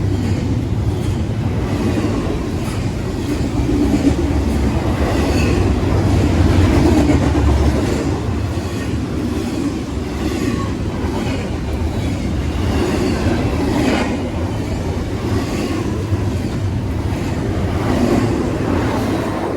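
A train passing at close range: a steady heavy rumble with wheels clacking over the rail joints, fading away near the end.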